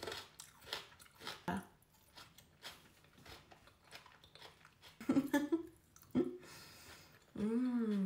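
Close-miked chewing of raw onion and boiled potato: crisp crunching bites and wet chewing clicks. Short hummed voice sounds come from the eater, the loudest near the end, rising then falling in pitch.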